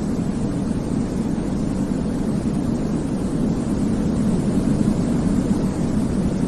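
Continuous baby-sleep white noise: an even, unchanging hiss weighted toward the low end, so it comes across as a deep, steady rumble rather than a bright hiss.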